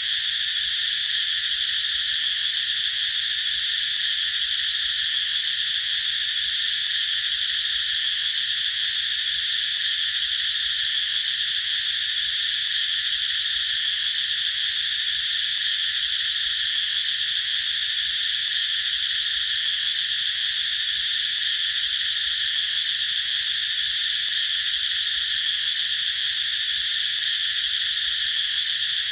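Cicadas singing in a continuous, unbroken high-pitched drone that holds steady throughout.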